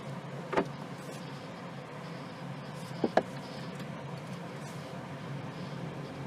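Steady low hum of a stationary car, with a sharp click about half a second in and two quick clicks about three seconds in.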